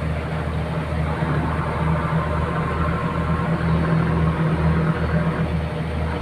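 Boat engine running steadily with a low throb that pulses about twice a second.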